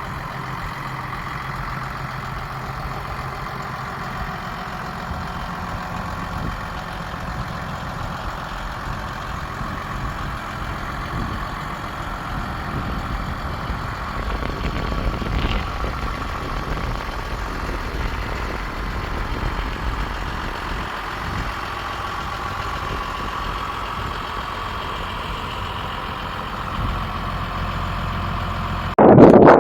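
Case IH MXM140 tractor's six-cylinder diesel engine idling steadily. Near the end a sudden loud rush of noise cuts in over it, like wind hitting the microphone.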